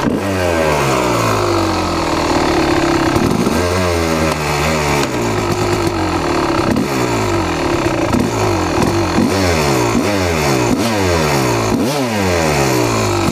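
Kawasaki KX250 two-stroke dirt-bike engine running hard, then revved up and down in quick repeated blips, about one a second, through the second half. The engine is being worked hard to free a stuck clutch that won't disengage.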